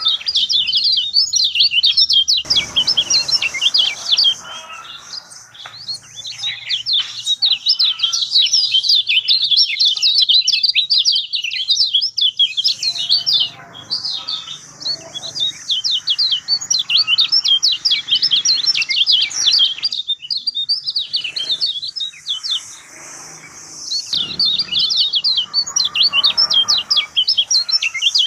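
Kecial kuning (a white-eye) singing a rapid, high, twittering song in long bouts, with brief lulls about halfway through and again about 20 seconds in.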